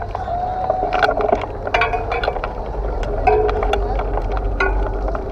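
Crowd of people talking over one another, with scattered short clicks over a steady low rumble.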